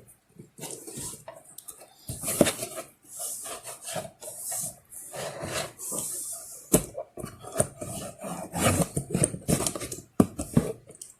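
Scissors cutting and slitting packing tape on a cardboard shipping box, with the cardboard scraped, rustled and flexed as it is opened: an irregular run of raspy scrapes, short rips and clicks.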